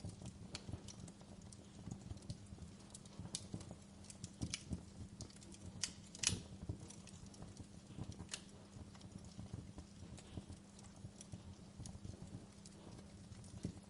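Wood logs burning in a fireplace, crackling with irregular pops and snaps over a low steady hum. The loudest pop comes about six seconds in.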